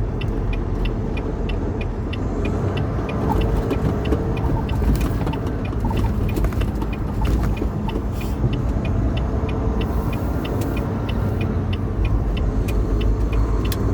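Inside a semi truck's cab: the engine and road noise rumble steadily while the turn signal clicks evenly, about two or three clicks a second, for a left turn.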